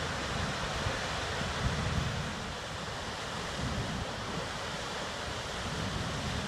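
Goðafoss waterfall rushing, a steady wash of falling water, with wind buffeting the microphone in low gusts.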